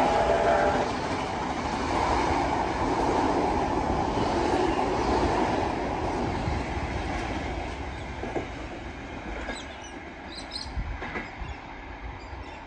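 Heritage passenger carriages of a steam-hauled train running past on the rails. The loud rolling noise fades over the second half as the train pulls away.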